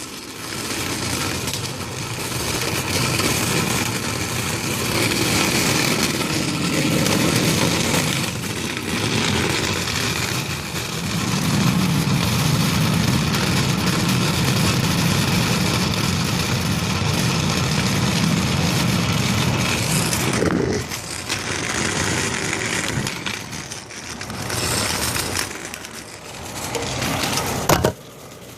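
Fire trucks' diesel engines running at idle, a steady low rumble with a sharp knock near the end.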